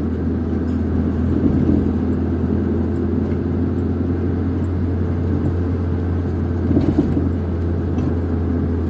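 Steady low drone of a car's engine and tyres heard from inside the cabin while driving, with a brief slightly louder moment about seven seconds in.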